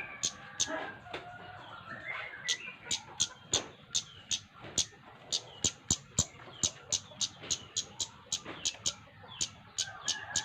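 Flowerpecker (cabe-cabean) calling persistently: a rapid series of sharp, high-pitched ticks, about three a second, in an energetic, non-stop calling bout.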